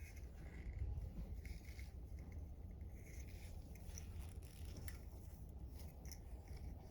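Faint handling noises: small scattered clicks and scrapes over a steady low rumble.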